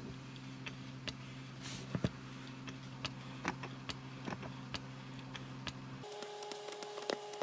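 Faint irregular clicks and ticks from a hand-operated gear-oil pump being stroked, over a steady hum that shifts to a higher pitch about six seconds in.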